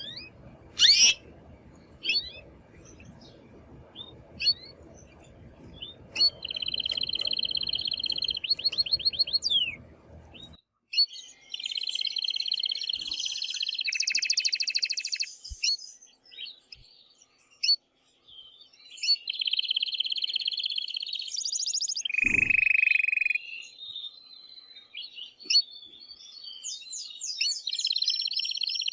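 Male canary singing loudly in its excited courtship song: long phrases of rapid rolling trills, with short single chirps in the gaps between phrases.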